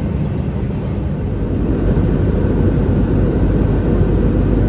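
Airbus A320 cabin noise in flight: the steady rumble and rush of the CFM56 engines and airflow heard from inside the cabin, growing a little louder about two seconds in.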